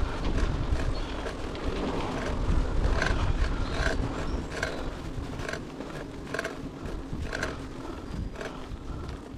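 Bicycle ride with wind rumbling on the action camera's microphone and tyre noise, and a short squeaky click repeating about once a second.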